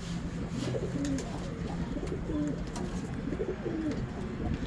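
Domestic pigeons cooing, a string of short low rising-and-falling coos from more than one bird, over a steady low hum.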